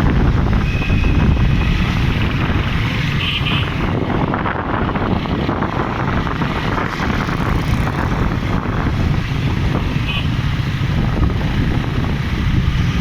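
Wind buffeting the microphone over the steady rumble of a vehicle on the road while driving. A few short, faint high-pitched tones cut through about a second in, around three seconds in and about ten seconds in.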